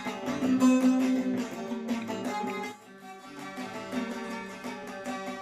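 Saz (bağlama) playing an instrumental interlude of the folk song: quick plucked melody notes over a steady drone, getting softer about three seconds in.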